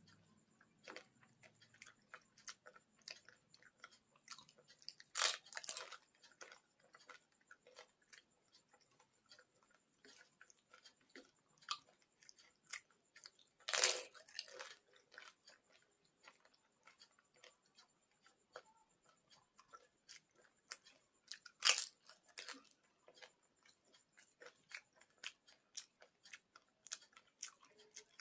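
A person chewing and crunching panipuri, the crisp hollow fried puris, with many small chewing clicks. There are three louder crunching bites, about 5, 14 and 22 seconds in.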